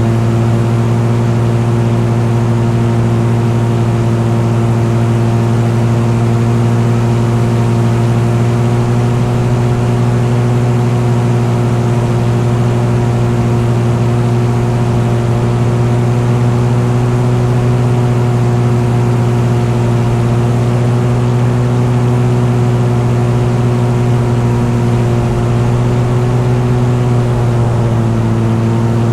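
An engine running at a steady, constant speed, a loud even drone that drops slightly in pitch near the end.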